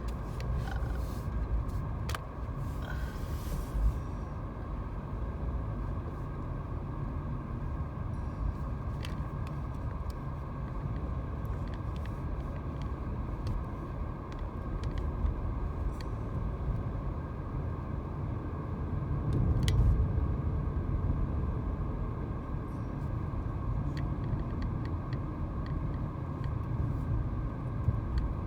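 A car driving, with a steady low rumble of engine and tyre noise and a few faint clicks; the rumble swells briefly about two-thirds of the way through.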